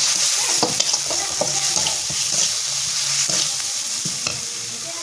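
Onions and ground spices frying in oil in an aluminium kadai, sizzling steadily while a metal spatula stirs and scrapes the pan. Short metal-on-metal clicks come every second or so.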